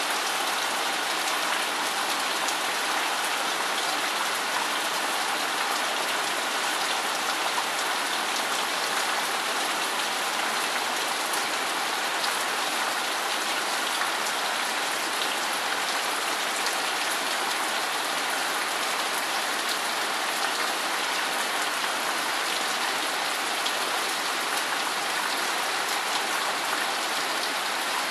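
Steady rain falling, an even, unbroken hiss of drops on surfaces that neither builds nor eases.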